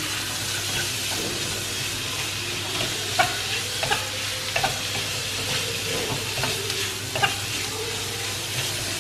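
Freshly added boneless chicken pieces frying with diced carrot and onion in a wok, a steady sizzle, while a wooden spatula stirs them and knocks against the pan about a dozen times.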